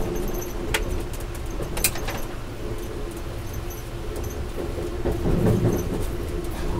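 Moving passenger train heard from inside the coach: a steady rumble of wheels on the rails under a constant hum, with a few sharp clicks about one and two seconds in and the rumble swelling a little near the end.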